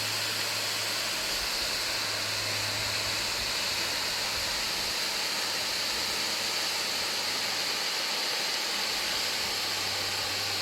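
A waterfall pouring: a steady, even rush of falling water with no break.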